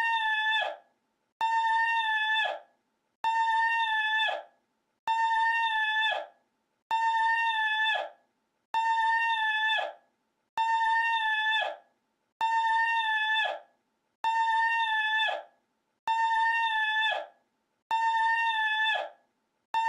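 A short, high-pitched held vocal cry looped over and over: about eleven identical calls, each held on one high note for a second or so and dropping in pitch as it cuts off, one roughly every two seconds.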